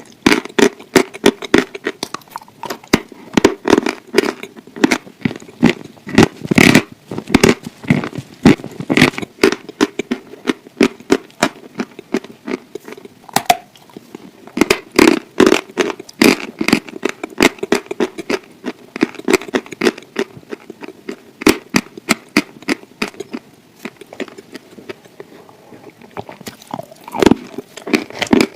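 Close-miked chewing and mouth sounds of someone eating: a dense run of wet clicks and crackles, easing off briefly a little past the middle and picking up again near the end.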